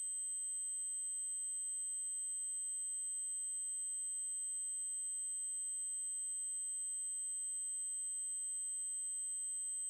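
Steady 8192 Hz triangle-wave test tone: a single, continuous, very high-pitched electronic tone that holds unchanged.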